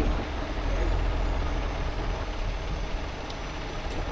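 Heavy tow truck's diesel engine running steadily with a deep low rumble, under a wash of outdoor noise. Two faint ticks sound near the end.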